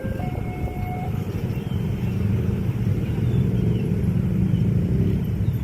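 A train passing at speed, a heavy low rumble that builds after the first second and stays loud. A steady high two-note tone cuts off about a second in.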